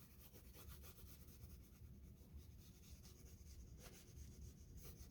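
Faint scratchy rubbing of an oil pastel stick worked across textured pastel paper in quick short strokes, with two sharper scrapes near the end.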